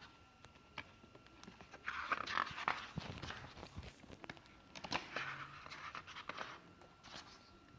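Pages of a hardcover book being turned by hand: two rustling page turns, about two seconds in and about five seconds in, with small paper and handling clicks between them.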